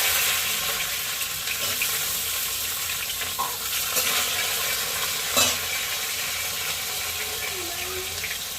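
Slices of spiny gourd (kakrol) sizzling steadily in hot oil in a frying pan. Two sharp knocks come about four and five and a half seconds in, as the pan is stirred.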